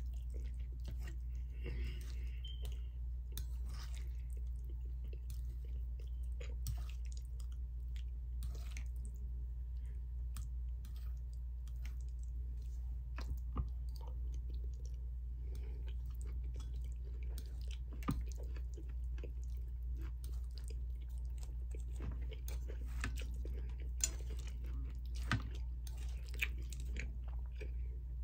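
A person chewing and biting beef and broccoli close to the microphone, with scattered light clicks and taps from a plastic fork over a steady low hum.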